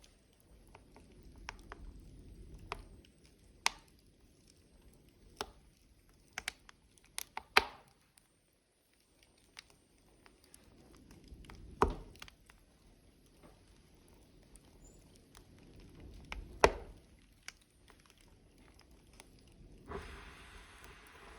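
Wood logs burning in a fire, crackling with irregular sharp pops and snaps over a low, soft rumble of flame, the loudest pops coming about 7, 12 and 17 seconds in. A soft hiss rises near the end.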